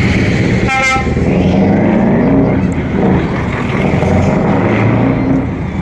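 Heavy truck engines running, with a short horn toot about a second in.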